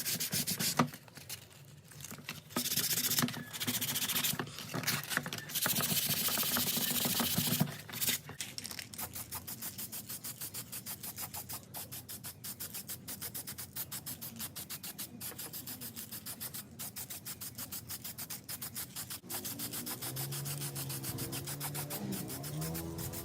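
Rubbing and scraping strokes by hand, like sanding or scrubbing a part. A few loud, irregular passes come in the first eight seconds, then a fast, even back-and-forth rub of about three strokes a second.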